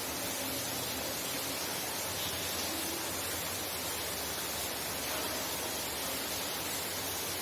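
Heavy rain falling steadily, heard from inside a house: an even, unbroken hiss.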